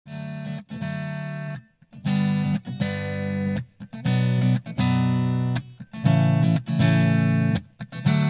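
Background music: a guitar strumming chords in a slow rhythm, each chord ringing out before the next.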